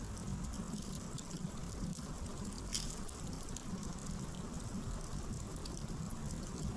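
Wood campfire burning: firewood crackling with scattered small pops over a steady low rumble of the flames, and one sharper crack a little under three seconds in.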